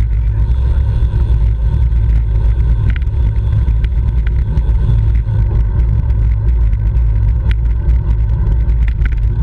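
Steady wind rumble on the microphone of a camera carried at speed in a road bicycle race, with a few faint clicks.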